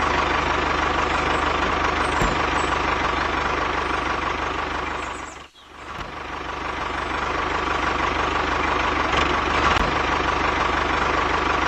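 Engine running steadily at an even pace, with a short dropout about halfway through.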